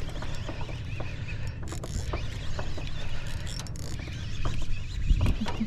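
Fishing reel being cranked, its mechanism giving a run of light, irregular ticks and clicks as a hooked fish is reeled in.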